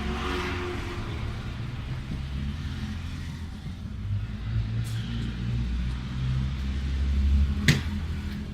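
Low engine rumble of a motor vehicle, growing louder toward the end, with one sharp click near the end.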